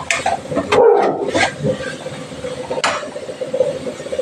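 A dog barks briefly about a second in, with a few sharp clicks of a spoon against a cooking pan around it.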